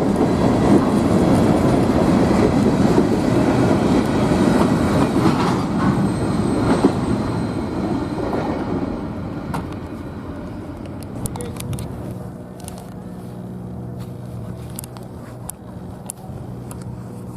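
CSX freight train rolling past, its rumble and wheel clatter fading away over the first eight seconds or so. Then a quieter, steady low engine hum, with a few sharp clicks.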